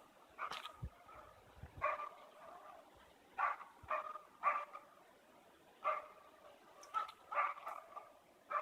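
A dog barking faintly and repeatedly, about nine barks at irregular spacing: barking at game, which the owner takes for a marten or a squirrel.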